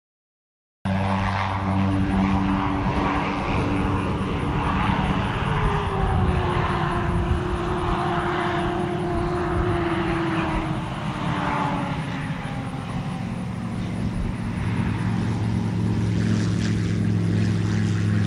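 Light aircraft's propeller engine running steadily, starting a second in, with a higher tone that slides lower around the middle as it passes.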